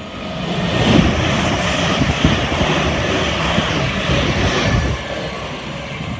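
A London Northwestern Class 350 Desiro electric multiple unit running past the platform close by: a loud rush of wheel and rail noise with a low rumble that builds over the first second and falls away about five seconds in.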